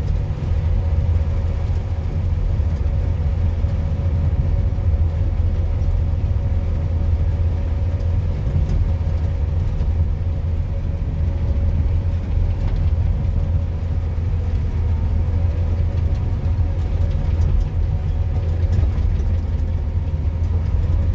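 A heavy machine's diesel engine running steadily: a low drone with a faint steady hum above it, as the vehicle works through sticky, rain-soaked soil that is hard to drive on.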